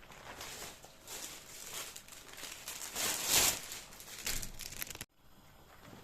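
Crinkling, rustling sound of something being handled, loudest about three seconds in. It stops abruptly about five seconds in.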